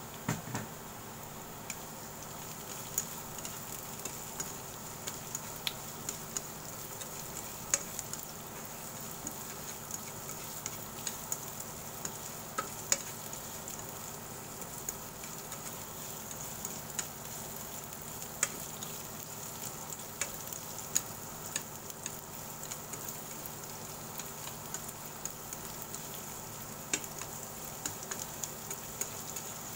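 Sliced carrots and onions sizzling steadily in oil in a nonstick frying pan, with scattered light clicks as chopsticks stir and tap against the pan.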